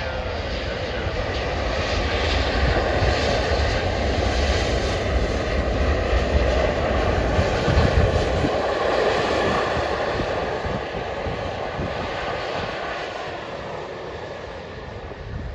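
Twin turbofan engines of an Embraer 175 jet airliner on landing: a steady rumble with a faint whine that grows to its loudest about halfway through, then slowly fades.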